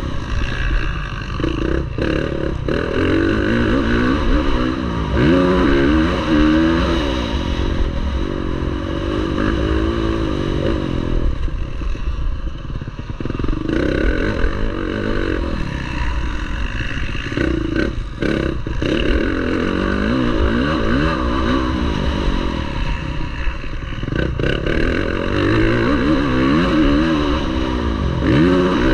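Motocross bike engine running hard under racing throttle, its revs climbing and dropping again every second or two as the throttle is opened and shut.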